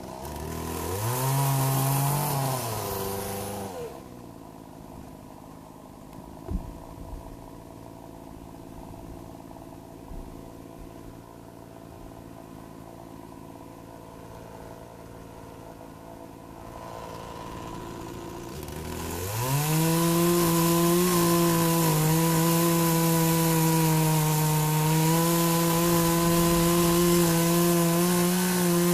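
Poulan 18-inch gas chainsaw revving briefly, then idling for about thirteen seconds. It then throttles up and runs steadily at high revs, cutting into a tree stump.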